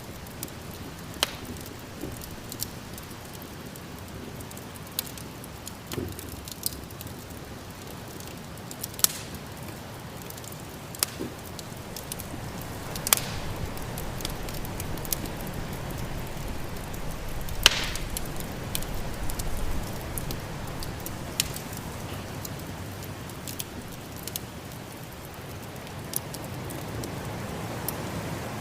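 Wood fire in a fireplace crackling, with scattered sharp pops, the strongest about two-thirds of the way in. Beneath them is a steady low rush of snowstorm wind.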